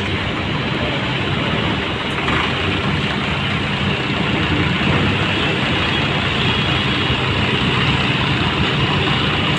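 New Holland 3630 tractor's diesel engine running steadily, a constant low drone with no revving.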